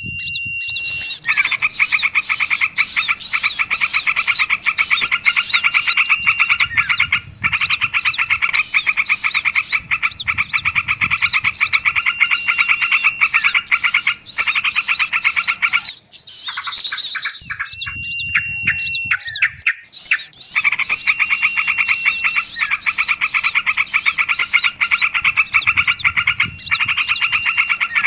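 Small birds calling on a bird-luring recording: a fast, unbroken chattering trill with high squeaky chirps over it. The trill breaks off about sixteen seconds in and starts again some four seconds later.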